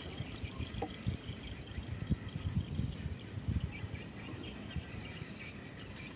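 Outdoor ambience with faint birds chirping, repeated short calls mostly in the first few seconds, over scattered low thumps.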